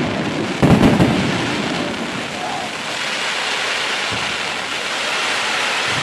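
Fireworks display: a shell bursts with a deep bang just before a second in, followed by a long, dense crackle like heavy rain as crackling stars burn out overhead.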